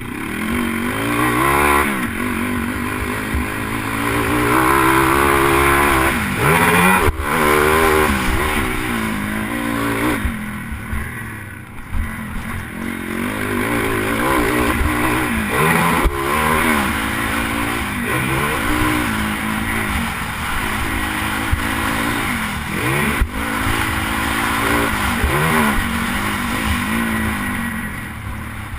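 Pit bike engine revving hard and falling off again, over and over, as it is ridden round a supercross track, heard from a helmet-mounted camera. A few sharp knocks stand out.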